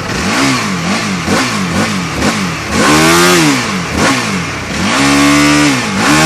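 EBR 1190RX motorcycle's V-twin engine being revved: a run of about five quick blips of the throttle, then three longer revs held briefly high.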